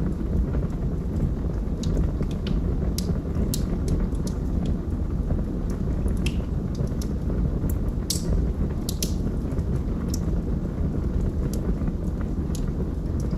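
Log fire burning with a steady low rumble and frequent sharp, irregular crackles and pops from the burning wood, a cluster of louder pops near the middle.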